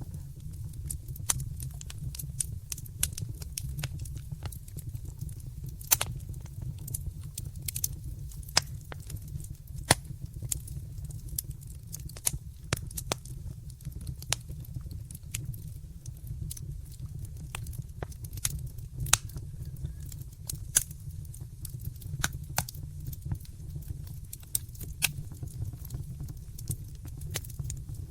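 Wood fire burning in a fireplace, with irregular crackles and pops over a steady low rumble; a few sharper pops stand out, the loudest about six and ten seconds in.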